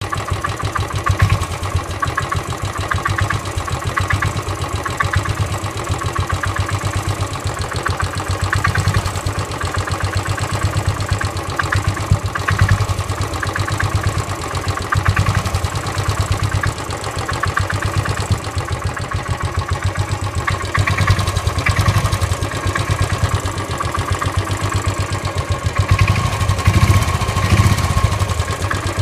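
Royal Enfield Classic 500 EFI's single-cylinder engine idling with a steady knocking. Friends of the owner suggest the knock could be piston slap or abraded floating bushes.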